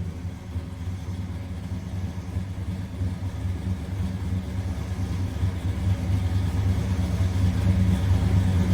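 1971 Chevrolet Chevelle Malibu's engine idling through its exhaust, a steady low rumble.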